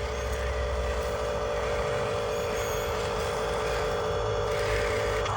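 Radio-controlled truck's electric motor and gearbox running with a steady whine.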